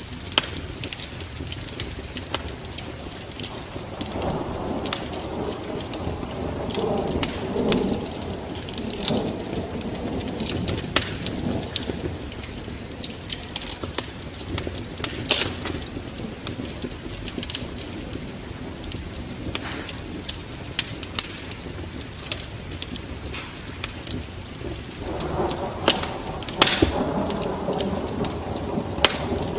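Wood fire burning in a fireplace, crackling with frequent sharp, irregular pops over a steady rushing of flame. The rush swells for a few seconds about four seconds in and again near the end.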